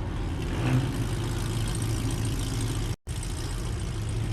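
Vehicle engine idling with a steady low hum. The sound cuts out for an instant about three seconds in, then resumes.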